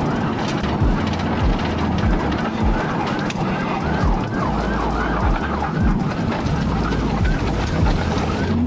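Police cruiser siren in a fast yelp, its pitch sweeping up and down about three times a second, becoming clear about three seconds in, over steady road and engine noise of a car at pursuit speed.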